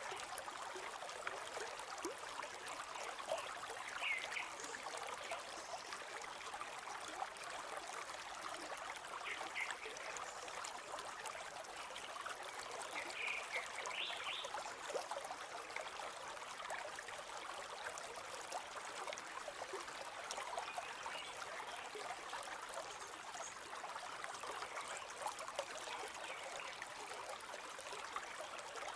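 A shallow river or stream flowing steadily over stones, with an even babbling and trickling of water.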